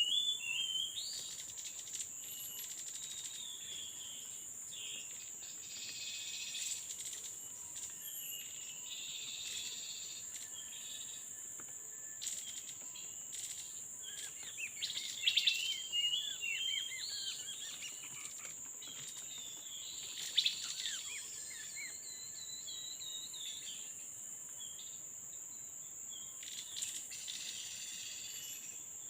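Small forest birds chirping and calling in short, quick phrases over a steady high-pitched insect drone. The calls come loudest in a cluster around the middle and again briefly a few seconds later.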